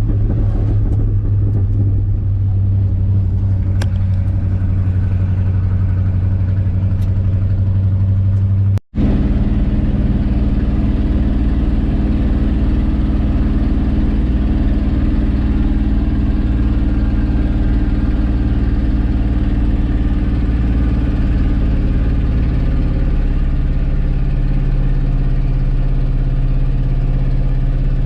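Old Ford F350 pickup's engine running steadily under load while towing a loaded gooseneck trailer. About nine seconds in the sound cuts out for an instant, and afterwards the engine drone is deeper.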